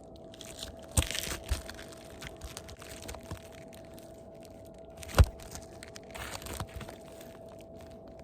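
Cold, brittle asphalt shingles crackling and crunching as they are worked up and handled beneath, with scattered clicks and two sharp knocks, about a second in and about five seconds in.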